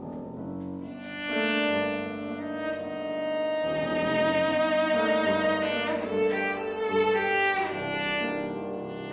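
Live chamber music: violin and cello playing a melodic passage of long held notes, with a few sliding pitches near the middle.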